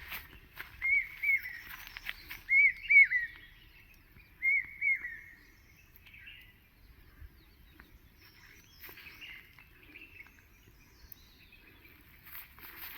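Small birds chirping: repeated pairs of short arching chirps in the first five seconds, then fainter scattered calls.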